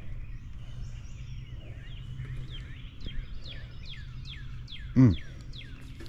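A bird singing a run of quick down-slurred chirps, repeated several times a second, over a steady low hum. About five seconds in, a single loud short sound drops sharply in pitch.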